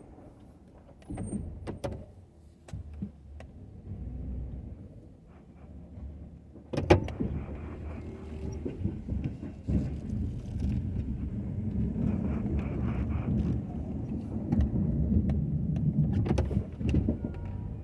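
Ford F-250 plow truck running, with scattered clicks and knocks. There is a sharp bang about seven seconds in, after which the low rumble grows louder and steadier.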